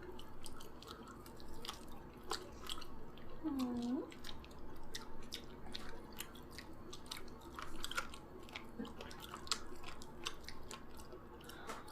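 Close-up chewing and eating mouth sounds, made up of many small wet clicks and smacks. About three and a half seconds in comes a brief hummed voice sound, its pitch dipping and rising.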